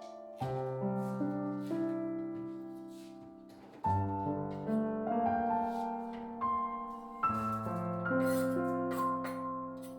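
Background music: slow, soft piano, chords struck every few seconds and left to fade.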